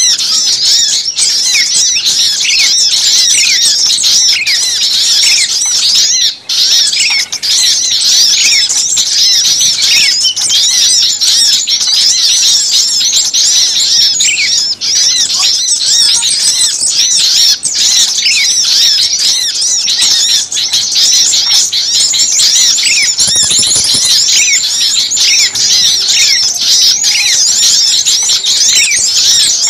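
Dense, agitated chorus of many small songbirds calling at once, a rapid unbroken stream of high-pitched chirps, twitters and short falling notes: a small-bird lure recording meant to draw birds in.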